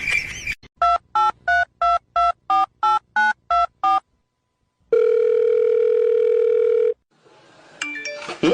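Telephone keypad tones: about a dozen short two-pitch beeps in quick succession, like a number being dialed, followed by a steady tone lasting about two seconds. A short rising sound comes in near the end.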